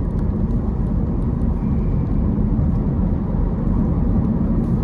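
Steady low rumble of a car's engine and tyres heard from inside the cabin while driving up a grade.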